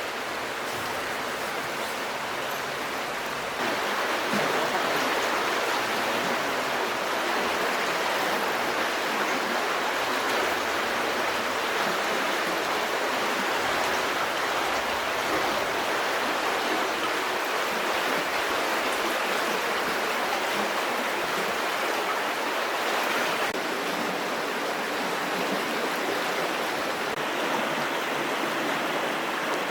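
Steady rushing of flowing water, a little louder from about three and a half seconds in.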